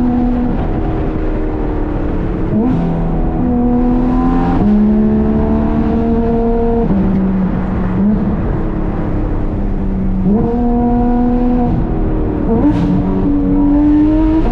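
Porsche 991.2 GT3 RS's naturally aspirated flat-six, with a Dundon crack pipe and street headers, driving under load. The exhaust holds a steady note that jumps to a new pitch several times as it changes gear.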